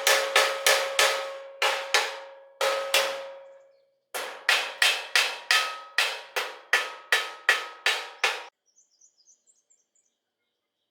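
Hammer striking metal repeatedly, about three blows a second, each blow ringing. There is a short pause about three seconds in, and the hammering stops about eight and a half seconds in.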